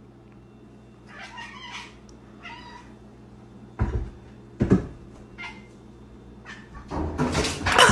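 A domestic cat meowing several times, with two dull thumps partway through and a louder, noisier burst of sound near the end.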